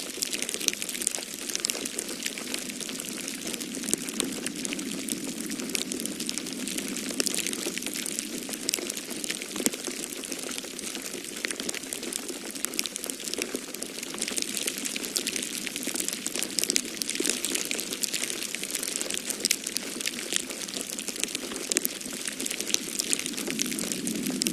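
Wood fire crackling in a fireplace: many small pops and snaps over a steady hiss. Underneath, a low rush of snowstorm wind swells and eases, and grows near the end.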